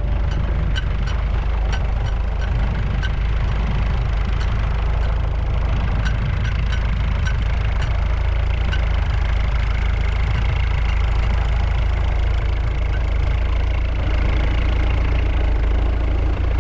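Diesel engine of a heavy loader machine running steadily under light load as it is driven round in a tight circle. A faint regular ticking, about two a second, runs through the first half, and a faint steady high whine comes in during the second half.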